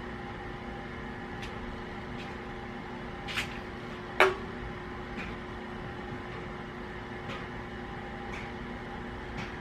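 Steady electrical hum in a small room, with a few faint ticks and one sharper knock about four seconds in.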